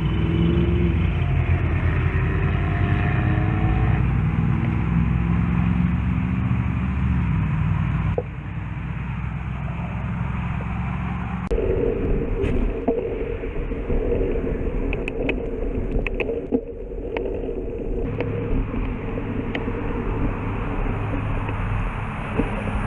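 A motor vehicle's engine running, its pitch rising and falling over the first several seconds, then settling into a steadier hum a little before halfway through.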